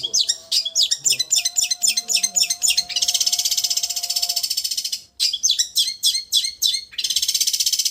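Long-tailed shrike (cendet) singing in its 'raja getar' style. Rapid high chattering notes alternate with fast, vibrating buzzy trills, with a brief break about five seconds in.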